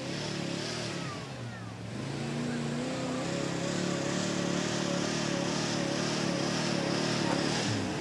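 Engine of a pulling vehicle working hard under load, its pitch wavering. It eases off about one and a half seconds in, picks up again about two seconds in, holds, then falls away near the end.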